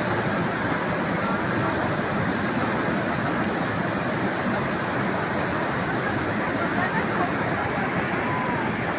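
Flash-flood water rushing past in a torrent: a steady, loud wash of churning water.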